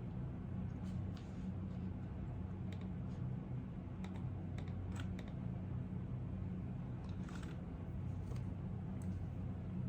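Computer keyboard being typed on in sparse, irregular keystrokes, with a short run of presses near the end, over a steady low hum.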